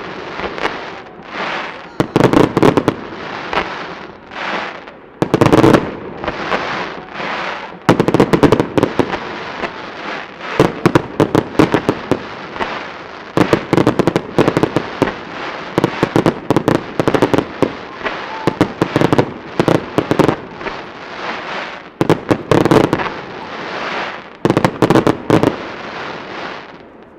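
Aerial fireworks going off in rapid succession: shells bursting every couple of seconds, each followed by a dense spray of sharp crackling that rings out and fades.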